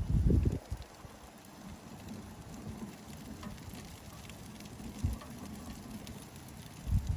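Rain dripping and pattering, a steady hiss with scattered small ticks of drops, broken by low muffled thumps in the first half-second, once around the middle and again near the end.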